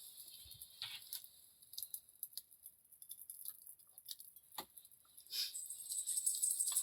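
Scattered light clicks and taps, with one sharper click about two-thirds of the way through. Near the end a steady, shaken jingling starts up and keeps going.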